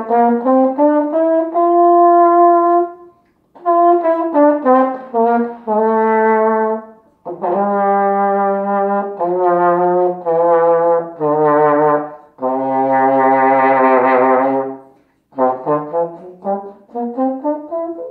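King 1120 marching horn in F, played solo: short phrases of notes rising step by step, each ending on a held note, with breath pauses between them. Then several long held notes, one with a wavering pitch, and another quick rising run near the end.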